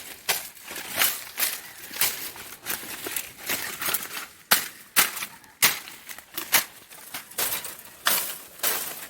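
Dry leaves and twigs crunching and snapping in irregular sharp crackles, about one or two a second.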